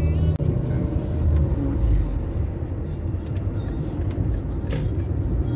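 Car driving along a town road, heard from inside the cabin: steady engine and road rumble.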